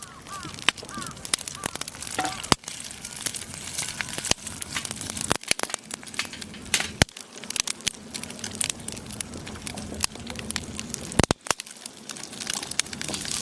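Wood campfire crackling, with irregular sharp pops and snaps of burning firewood over a steady hiss.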